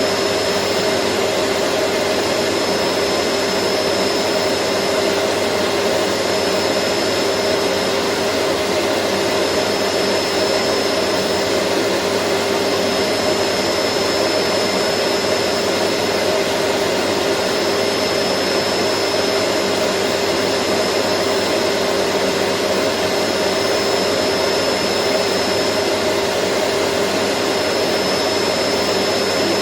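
Vacuum cleaner running steadily, a constant whooshing rush with a steady hum and a thin high whine over it.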